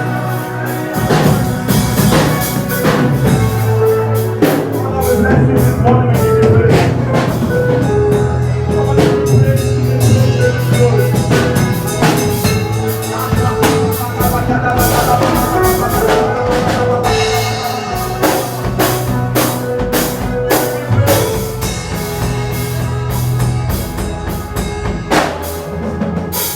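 Worship music from a band with a drum kit playing a steady beat over a sustained bass line and held chords.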